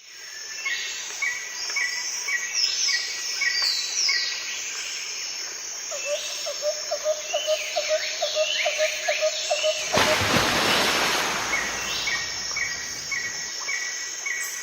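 Several birds singing and calling together: a repeated short call about twice a second, with higher chirps and trills over it. For a few seconds in the middle there is also a lower, rapid run of notes, about four a second. A few seconds past the middle, a loud rush of noise washes over everything for about two seconds.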